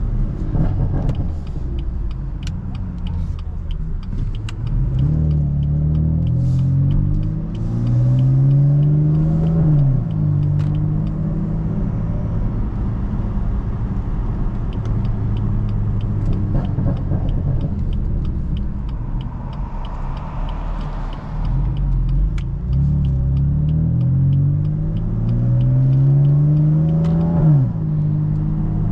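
BMW F82 M4's twin-turbo inline-six driving under load: the engine note climbs steadily and then drops sharply, twice, about nine and twenty-seven seconds in, as it accelerates and shifts up, with a steadier cruising drone between.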